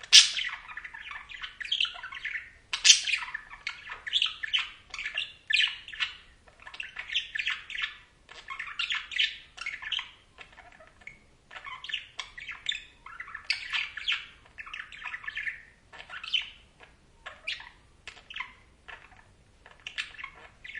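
Budgerigars chattering: a continuous stream of short chirps, squawky warbles and tweets, loudest right at the start and again about three seconds in.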